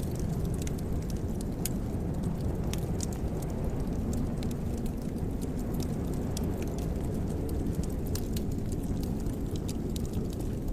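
Wood fire crackling in a fireplace: scattered sharp pops and ticks over a steady low rumble.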